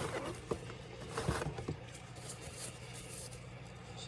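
Small clicks, taps and short scrapes of handling a laptop and tools during disassembly, over a steady low hum.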